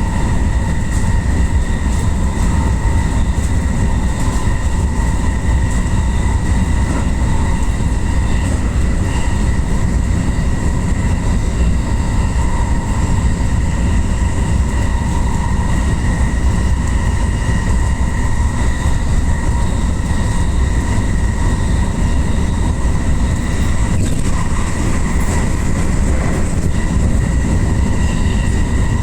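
Electric passenger train running at speed, heard from inside the front car: a steady low rumble of wheels on rail with constant high whining tones over it.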